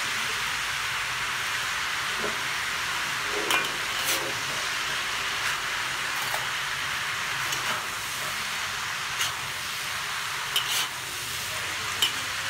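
Noodles, meat and vegetables sizzling steadily in a hot wok as they are stir-fried, with metal utensils knocking against the wok a handful of times.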